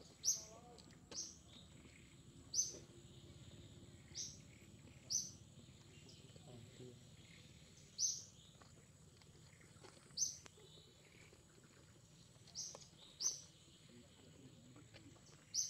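A bird calling: short, high chirps that slide quickly downward, given singly or in close pairs every one to three seconds, over a faint steady high-pitched tone.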